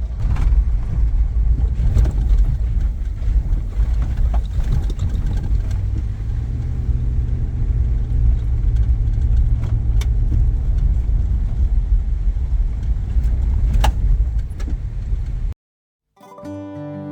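Truck driving on a rough gravel logging road: a steady low road rumble with scattered knocks and rattles. It cuts off suddenly near the end, and music begins.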